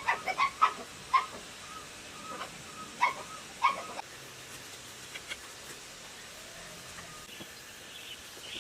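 Short, repeated animal calls, several in quick succession over the first four seconds, then dying away to a quiet background.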